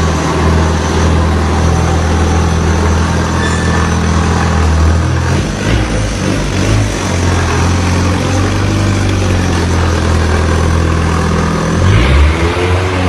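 Engine of a homemade motorcycle running steadily at a low, even pitch. The engine note shifts about five and a half seconds in, and near the end the pitch briefly rises and falls.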